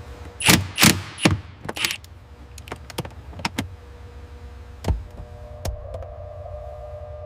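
A series of sharp clicks and knocks, the four loudest within the first two seconds and lighter ones after, with two duller thumps about five seconds in, over a steady low hum.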